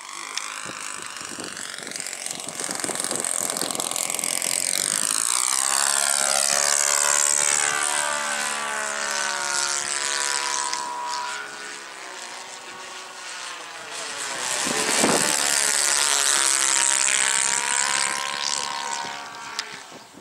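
RC trainer model airplane in flight, its motor and propeller swelling and fading as it makes two close passes, loudest about a third of the way in and again near three quarters through.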